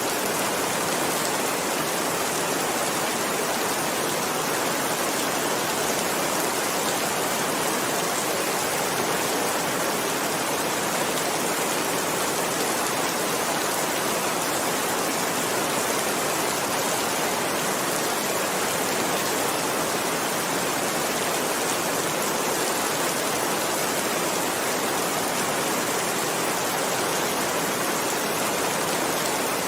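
Continuous steady rainfall, an even hiss.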